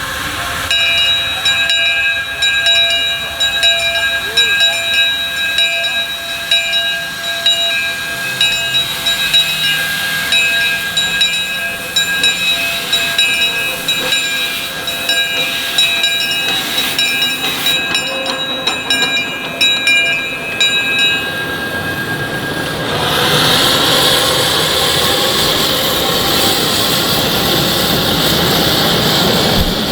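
A live-steam miniature train running, with hissing steam. Several steady high tones sound together through the first two-thirds and stop about 21 seconds in. Near the end a louder, even rushing noise takes over.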